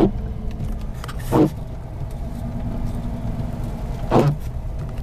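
Car cabin noise while driving: a steady low engine and road rumble inside the car. Three brief louder voice-like sounds come near the start, about a second and a half in, and near the end.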